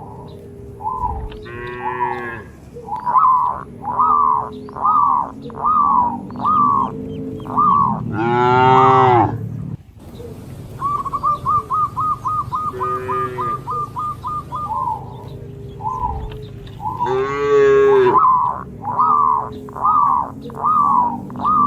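Cattle mooing: a short moo about two seconds in and a long, loud moo about eight seconds in, the same pair coming again about ten seconds later. Birds chirp in quick repeated high notes throughout, and the whole sequence repeats like a loop.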